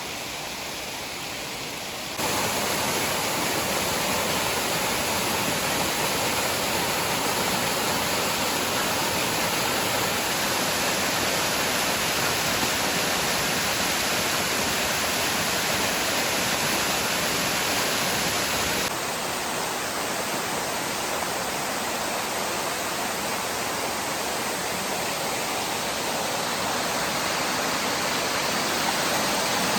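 Waterfall: a steady rush of falling water. It jumps louder abruptly about two seconds in and changes in tone abruptly again a little before twenty seconds in.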